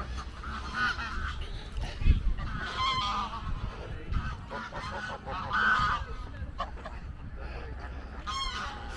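A flock of geese honking, with many scattered, overlapping calls.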